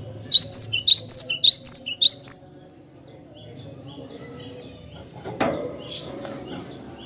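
Cinereous tit (glatik batu) singing: a loud, rapid run of about ten sharp, high notes in just over two seconds, followed by quieter repeated chirps. A single knock sounds about five and a half seconds in.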